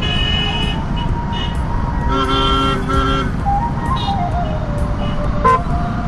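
Riding a motorcycle through city traffic: a steady rumble of engine, road and wind, with vehicle horns honking, two short honks coming a little after two seconds in.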